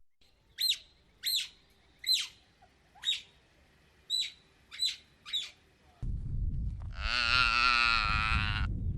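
Seven short, sharp bird calls, each sweeping down in pitch, about one every three-quarters of a second. About six seconds in a low rumbling background noise starts, then a cow moos once, a long call of nearly two seconds.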